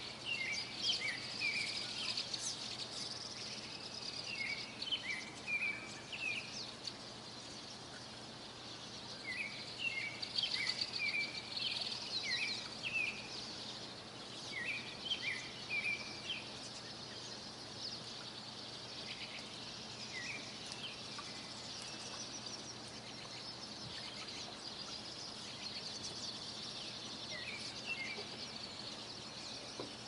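Songbirds chirping and trilling in short bursts, busy through the first half and sparser later, over a steady faint background hiss.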